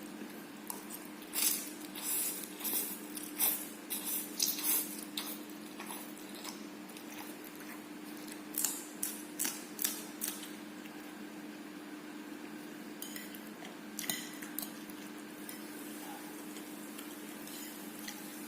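Eating fried instant noodles: cutlery clinking and scraping on a plate, with mouth sounds of eating, in three clusters of short sharp sounds separated by quieter stretches.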